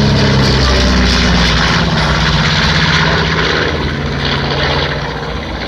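A B-25 Mitchell's twin Wright R-2600 radial engines passing by, their note dropping in pitch about a second in and fading as the bomber moves away.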